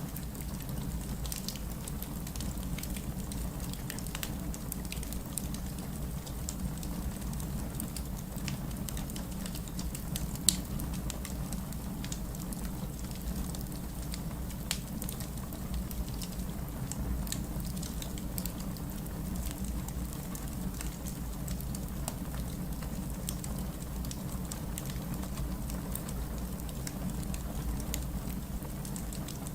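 Steady rain with a low rumble, mixed with a wood fire crackling in a fireplace: scattered sharp pops throughout, one louder pop about ten seconds in.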